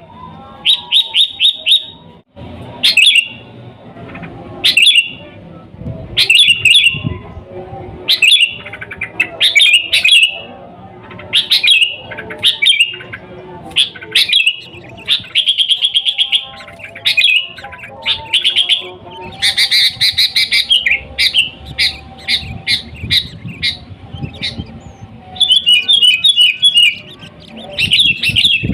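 Sooty-headed bulbul (kutilang) singing loudly, short bubbling whistled phrases repeated every second or two. Quick runs of rapidly repeated notes come at the start, about two-thirds of the way through and near the end.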